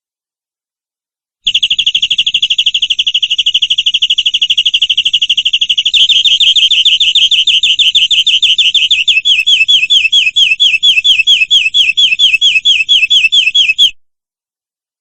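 Domestic canary singing a fast rolling trill, starting about a second and a half in. It shifts partway through into slower, separate down-slurred notes that become more spaced out, then cuts off abruptly near the end.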